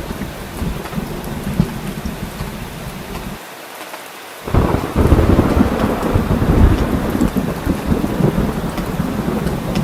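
Heavy rain falling with deep rolling thunder. Just past the middle the low rumble drops away for about a second, then comes back suddenly and louder.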